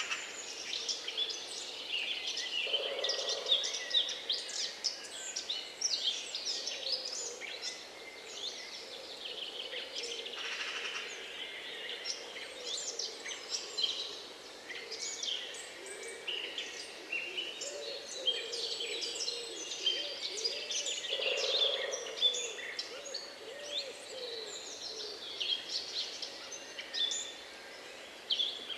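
Chorus of several songbirds singing, with many overlapping chirps, trills and whistles. Lower warbling calls come in about three seconds in and again around the middle.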